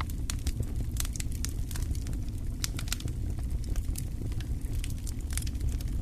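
Wood fire crackling steadily in a fireplace: a low constant rumble of the flames under frequent irregular sharp pops and snaps.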